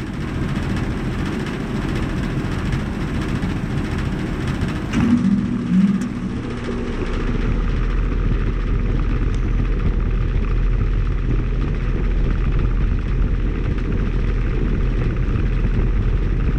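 2009 Carrier Comfort 5-ton heat pump outdoor unit starting up in heat mode with its coil frozen over, its fan running steadily. About five seconds in there is a click and a brief hum, and from then on a deeper steady low hum runs under the fan.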